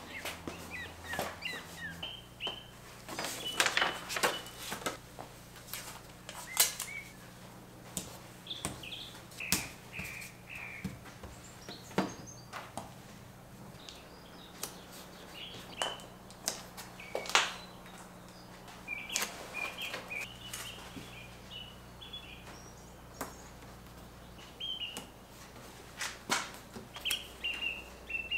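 Small birds chirping in short, scattered calls, over sharp clicks and knocks of handling and a faint steady low hum.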